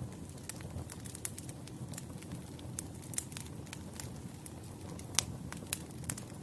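Wood campfire burning, a steady low rumble of flames with frequent irregular sharp crackles and pops of burning logs, one louder pop about five seconds in.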